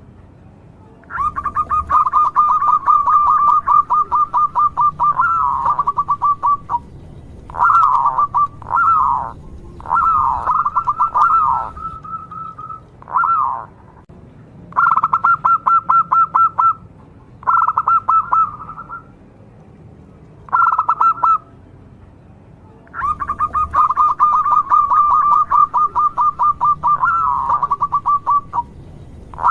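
Zebra dove (perkutut) cooing: repeated phrases of rapid, pulsed coos, two of them long runs of about five seconds near the start and the end, with shorter phrases and pauses in between.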